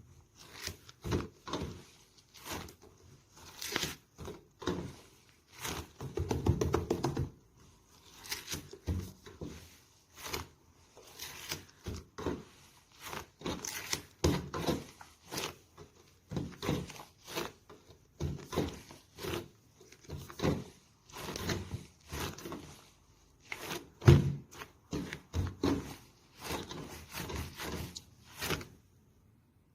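Soft slime being squeezed, poked and stretched by hand: a string of short squishes and clicks, one or two a second, with a longer squish about six seconds in.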